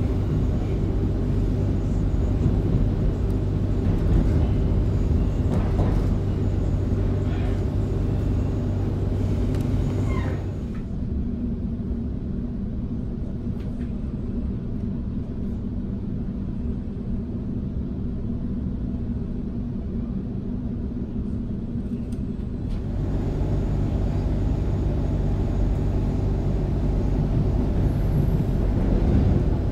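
Electric suburban train heard from inside a carriage: a steady low running rumble with motor hum. For about twelve seconds in the middle it drops to a quieter, duller hum, then the fuller running noise returns.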